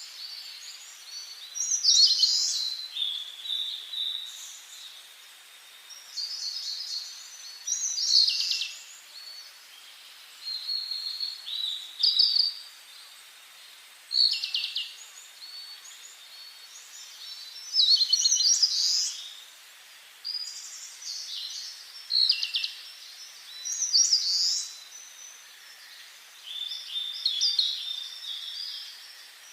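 Songbirds singing short phrases every two to three seconds, high-pitched and often stepping down in pitch, over a steady soft hiss.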